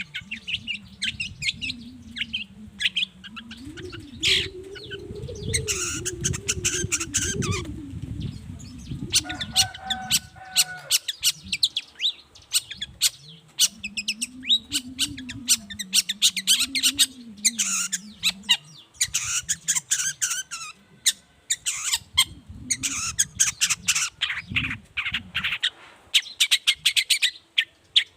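Long-tailed shrike (cendet) singing in rapid runs of sharp chips and chattering notes, with a short held note about ten seconds in.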